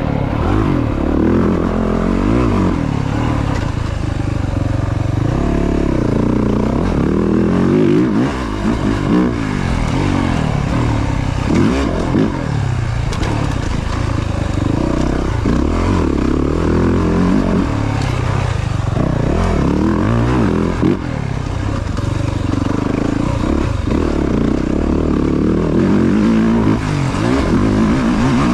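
Yamaha YZ450F four-stroke single-cylinder dirt bike engine revving up and down again and again while being ridden hard around a track, the pitch rising and falling every second or two with gear changes and throttle.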